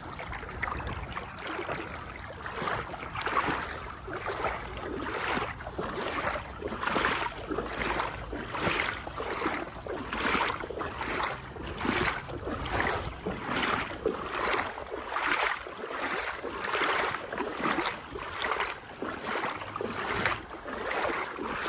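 A person in waders sloshing through knee-deep floodwater, each stride pushing the legs through the water in a regular swish, a little under one step a second.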